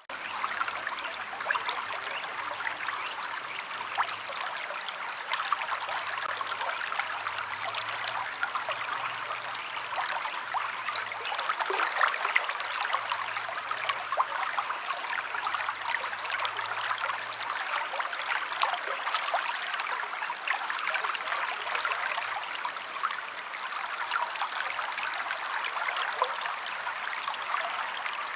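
River water flowing steadily, a dense rush full of small splashes and bubbling.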